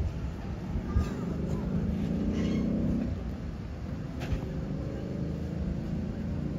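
Passenger train rolling along the track: a steady low rumble with a sharp clank about a second in and another about four seconds in.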